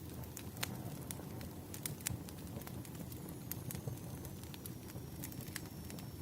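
Firewood burning: a steady low rumble of the fire with irregular sharp pops and crackles from the burning logs.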